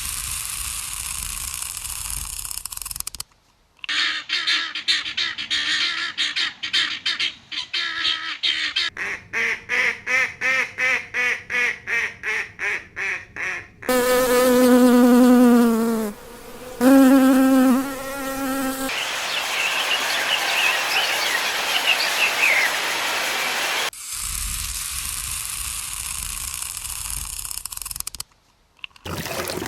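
A run of separate animal-sound clips cut one after another. Steady insect buzzing, then fast even pulsing trills, then two drawn-out pitched animal calls falling slightly in pitch, then a noisy stretch with quick chirps and steady buzzing again.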